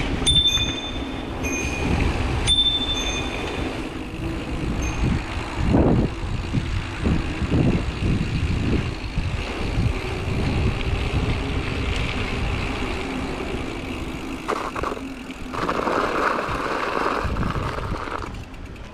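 Mountain bike rolling over rough trail: a continuous rumble and rattle of tyres, frame and drivetrain, with wind on the microphone. A few short, high-pitched squeaks come in the first few seconds.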